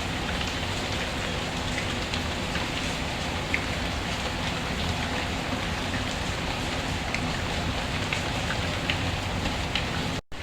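Steady rain falling on a surface, with scattered small drop ticks through it. The sound cuts out completely for a moment just before the end, then resumes.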